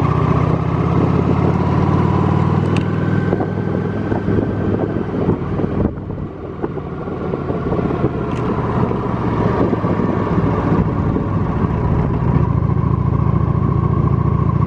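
Honda Shadow's V-twin engine running at road speed, heard from the saddle with wind noise over the microphone. The engine note eases off about six seconds in and picks back up a few seconds later.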